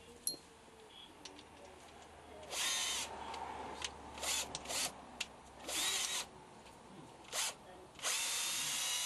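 Handheld power drill run in a series of short bursts, the last and longest about a second long near the end.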